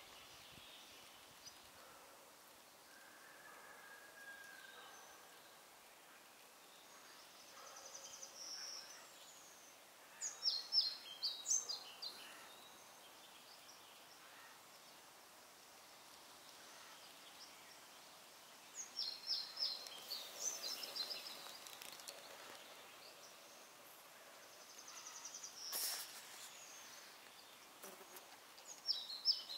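Quiet outdoor ambience with a songbird singing a short burst of quick, high, chattering notes three times, about every nine seconds, with fainter calls in between. A single sharp click comes near the end.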